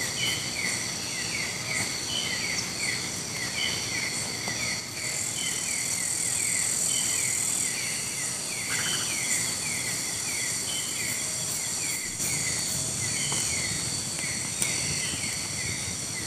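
Night insect chorus: steady high, shrill buzzing of many insects, with a short chirp repeating about twice a second. The shrilling swells louder twice, for two or three seconds each time.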